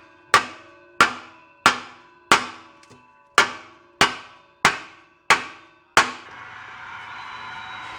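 Hammer striking a steel exhaust pipe nine times in a steady rhythm, about one and a half blows a second, each blow ringing, to bang a clearance dent into the pipe. The blows stop about six seconds in, and a faint steady hiss follows.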